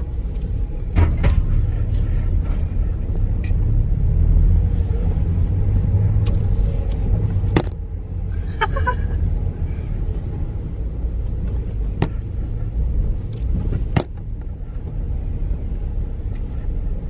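Subaru Impreza G4's flat-four engine and tyres rumbling steadily as the car moves slowly in low gear, heard from inside the cabin, with a few sharp clicks.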